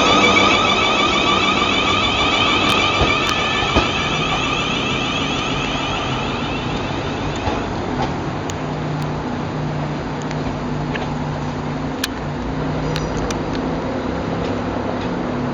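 Electric train's traction motors whining in several high tones as it pulls away, fading out about seven seconds in. A steady low hum and background rumble follow.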